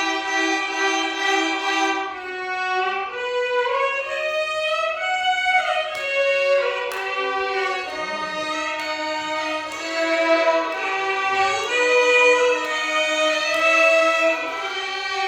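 Violin ensemble playing a Carnatic melody, with the pitch sliding and bending between notes over a steadily held low note.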